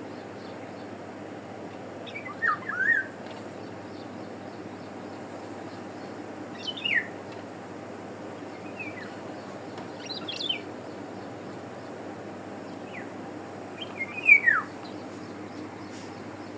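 Eurasian golden oriole giving short whistled phrases that slide downward in pitch, one every few seconds, the loudest near the end, over a steady low background noise.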